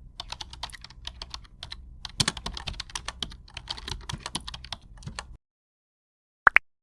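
Computer keyboard typing: rapid, irregular key clicks for about five seconds, then stopping abruptly. Near the end comes one short rising electronic chirp.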